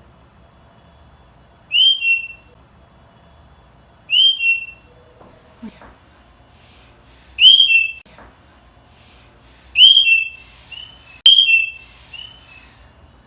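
A parrot giving loud, shrill whistled calls: five short two-part notes a couple of seconds apart, with a few softer notes near the end.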